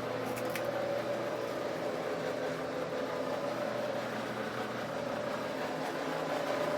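Steady mechanical hum with a few held tones and no change.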